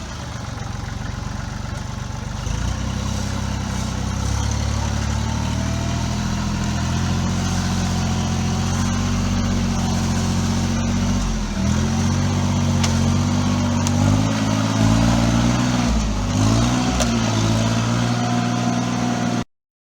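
Tractor engine running steadily, picking up speed about two seconds in, then repeatedly dipping and rising in pitch over the second half as it comes under varying load.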